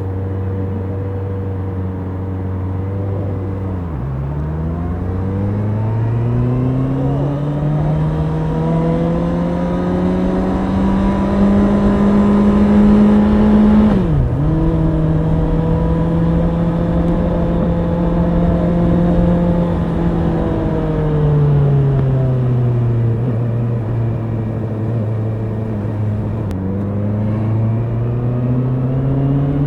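Honda CBR650R's inline-four engine running under way. The engine note climbs slowly, drops sharply about halfway through as at a gear change, then holds steady. It eases off and falls, then starts climbing again near the end.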